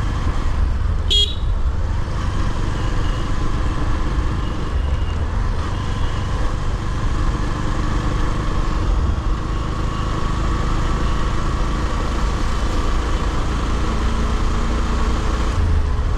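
Motorcycle riding along a road, a steady low rumble of engine and road noise, with a short high vehicle-horn toot about a second in.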